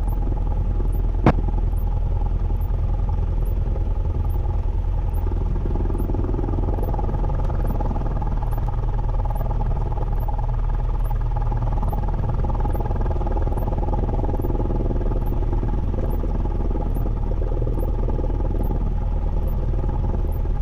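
Cessna 172N's four-cylinder Lycoming piston engine and propeller running steadily, heard from inside the cockpit, with a single sharp click about a second in.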